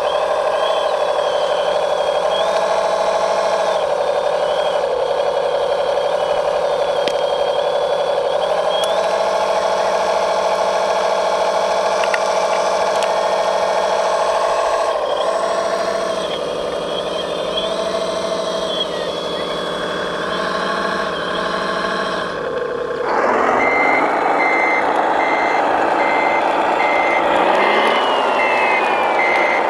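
Radio-controlled model construction machines working: a steady motor whine that shifts a little in pitch. About two-thirds of the way through the sound changes to a louder machine noise with a reversing alarm beeping evenly, about twice a second.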